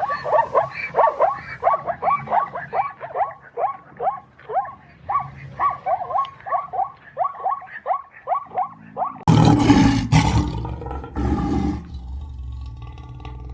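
An animal calling in a fast run of short, falling yelps, about three a second, then a big cat roaring loudly about nine seconds in. The roar fades over the last seconds.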